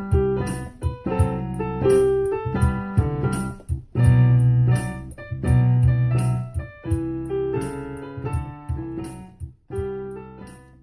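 Background piano music: a solo piano playing chords and a melody, fading away near the end.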